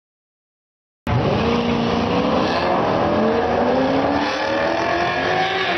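A car driving: engine and road noise start abruptly about a second in, with the engine's pitch rising slowly several times as it accelerates.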